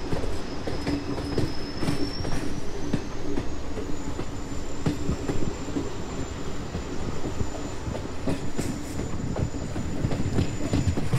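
Moving train running on the rails: a steady rumble with a low hum and repeated wheel clicks over the track. A thin, high wheel squeal rises in pitch about two seconds in and then holds steady.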